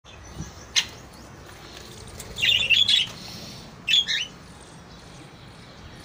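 Short bird calls: a single sharp tick about a second in, a quick cluster of high chirps a little before halfway, and another brief burst of chirps about a second later.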